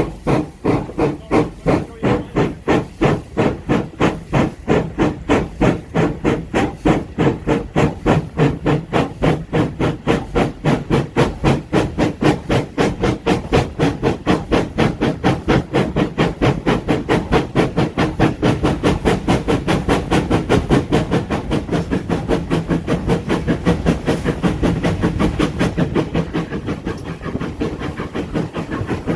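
Steam locomotive exhaust beating in a steady run of chuffs, about three a second, gradually quickening as the engine works the train, the beats blurring together near the end.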